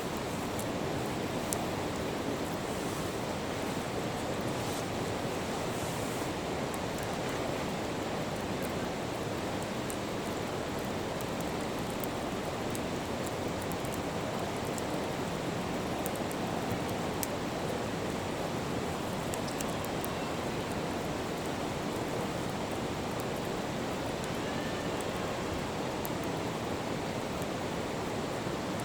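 Nearby river rushing, a steady full roar of flowing water, with faint scattered crackling ticks over it.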